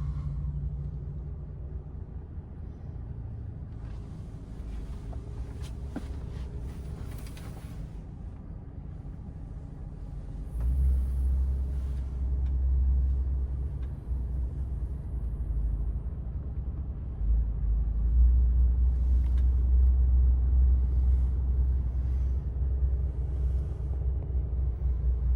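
DAF XF480's 12.9-litre PACCAR MX-13 straight-six diesel running with a low rumble. It grows louder about ten seconds in, eases, then rises again and stays up for the second half.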